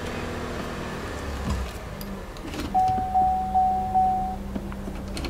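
A 2009 Saturn Vue's 2.4-litre four-cylinder engine idling, heard from inside the cabin, as the automatic gear shifter is moved. About halfway through, a dashboard warning chime beeps four times in quick succession.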